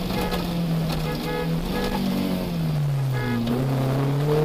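Rally car's engine heard from inside the cabin, holding steady revs, then falling gradually as the driver comes off the throttle and climbing again as it accelerates near the end.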